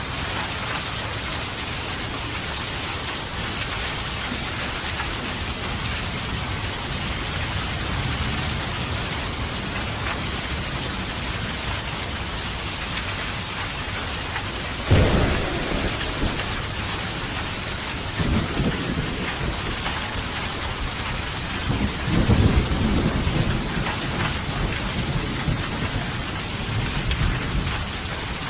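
Steady heavy rain falling, with thunder: a sudden loud clap about halfway through, then more rolling rumbles that build again near the end.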